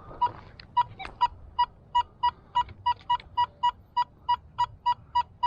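Metal detector beeping over a buried target: short, identical high beeps repeated about three times a second, quickening slightly.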